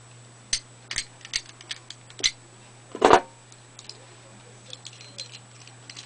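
Metal parts of a 96/11 rifle bolt clicking and knocking as the bolt is taken apart to reach the firing pin: several separate sharp clicks, the loudest knock about three seconds in. A steady low hum underneath.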